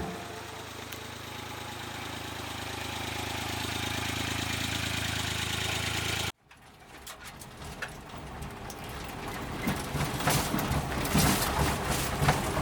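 Freshly overhauled Suzuki Jimny engine running steadily and slowly getting louder. About six seconds in, the sound cuts off abruptly, then comes back as a jolting drive with many short rattles and knocks.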